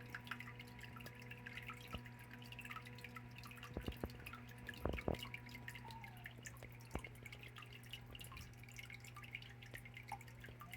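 Water from a small biotope waterfall trickling and dripping in irregular plinks, over a steady low hum.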